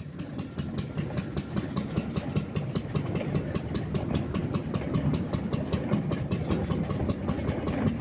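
Single-cylinder Lister D engine of a homemade narrow-gauge locomotive running steadily, with an even, rapid beat of firing strokes.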